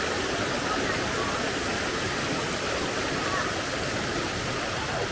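Steady rush of a waterfall's falling water, close by.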